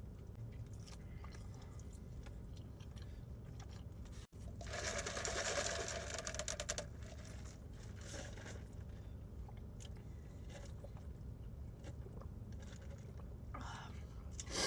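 Close-up eating sounds: chewing and crunching food. After a brief dropout about four seconds in comes a louder crunchy stretch of about two seconds, then scattered quieter chewing clicks over a low steady hum.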